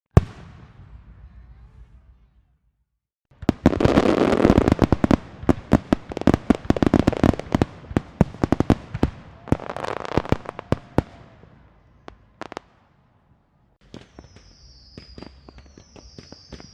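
Fireworks going off: a single sharp bang with a fading rumble, then after a pause a dense, rapid barrage of firecracker bangs and crackling that thins out into a few separate pops. Near the end come a series of short, high, falling whistles with scattered pops.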